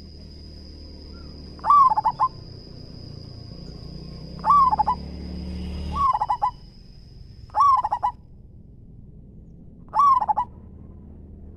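Zebra dove (perkutut) cooing: five short, trilled coo phrases, each about half a second, spaced a couple of seconds apart.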